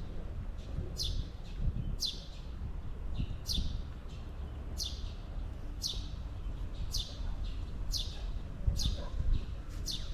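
A bird repeating a short, high call that falls in pitch, again and again at roughly one call a second, over a low rumble.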